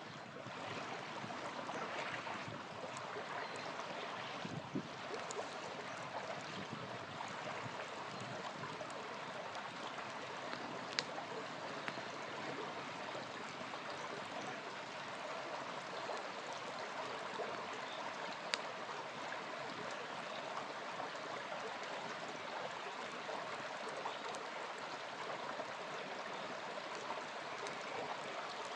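Small river flowing steadily in a continuous rushing, trickling wash, with a few sharp pops from a campfire.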